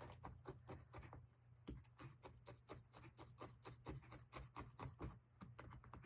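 Felting needle stabbing wool roving into a foam block over and over, faint quick ticks about five or six a second with two short pauses.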